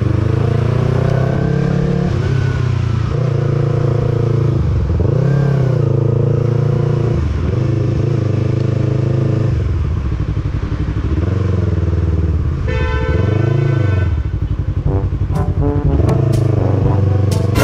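Sport motorcycle engine running while the bike rides slowly through traffic, its pitch rising and falling over and over as the throttle is opened and closed.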